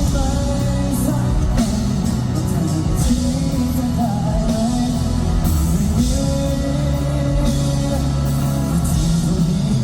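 A live rock band plays a song, with a lead vocal singing held notes over electric guitar and a heavy low end.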